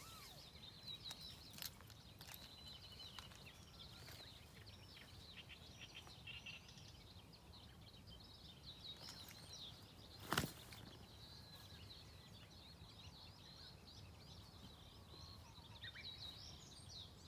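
Faint chirping of several small birds, many short gliding calls overlapping, with one sharp knock or snap about ten seconds in.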